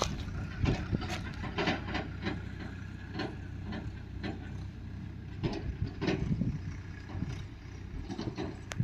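Engine of a JCB or tractor running steadily, with irregular knocks and clatter over it.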